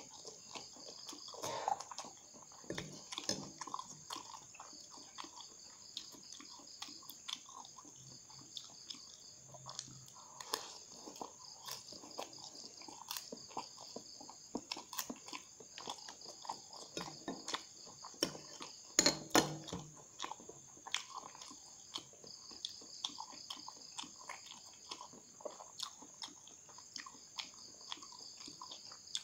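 Close-up eating sounds of a person chewing spoonfuls of noodles: many small, irregular wet clicks, with a louder cluster a little past the middle.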